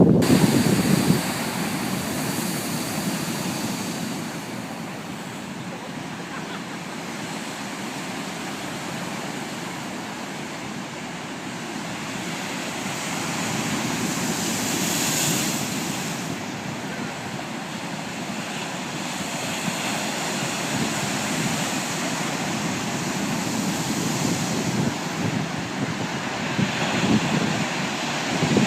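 Storm-driven surf on a large lake, with a continuous rush of breaking waves and wind blowing on the microphone. The rush swells and eases, with a louder surge about halfway through.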